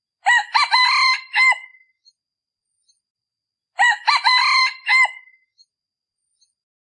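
Male decoy junglefowl cock crowing twice, about three and a half seconds apart. The two crows match in shape. This is the call used to lure wild junglefowl cocks.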